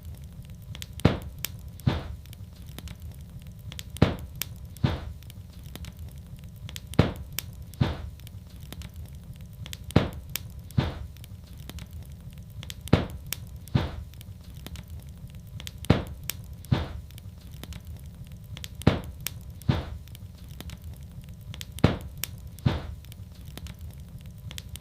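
Wood fire crackling in a fireplace: sharp pops, often two close together, every few seconds over a steady low rumble of the burning fire.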